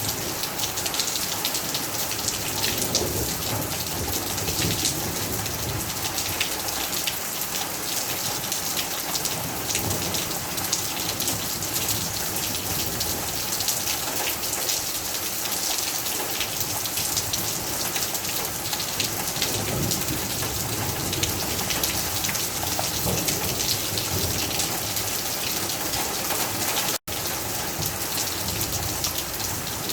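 Heavy rain falling steadily, a dense patter of many drops hitting a surface. The sound drops out for an instant near the end, then resumes unchanged.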